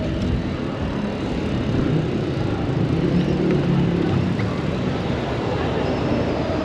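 City street traffic: a steady rumble of passing vehicle engines and tyres, with a faint engine hum rising out of it around the middle.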